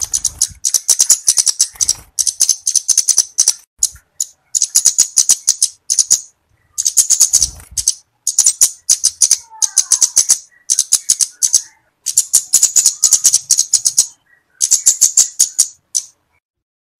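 Flowerpecker (cabe-cabean) calling in rapid, high-pitched rattling trills, about eight bursts of one to two seconds each with short pauses between them.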